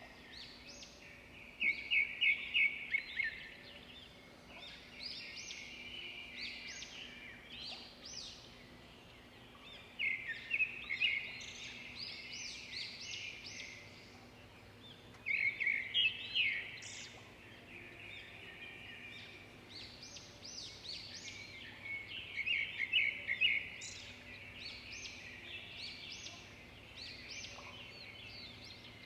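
Birds singing, one repeating a loud, fast phrase of rapid notes about every six or seven seconds, with softer chirps from others in between.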